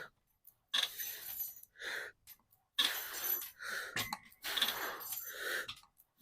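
A person breathing hard through the mouth, a series of forceful breaths in and out, about one every half second to a second, typical of straining through a heavy set. There is a single sharp click about four seconds in.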